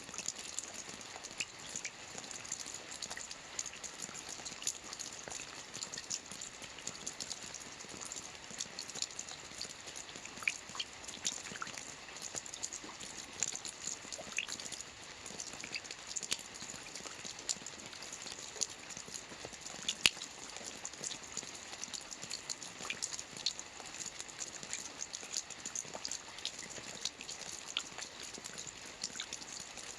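Steady rain falling on a lake, a constant hiss with many sharp individual drop ticks and plinks throughout, one louder drip about twenty seconds in.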